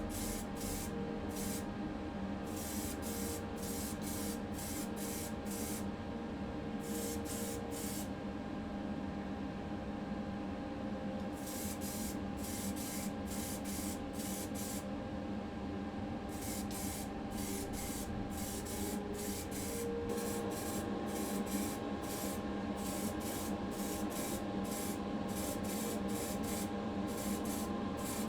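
Paint being sprayed in many short hissing bursts, grouped in runs with a few seconds' pause near the middle, over a steady low mechanical hum.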